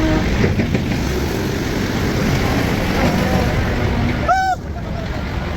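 Heavy machinery running with a dense, steady rumble, with a brief high-pitched squeal about four seconds in.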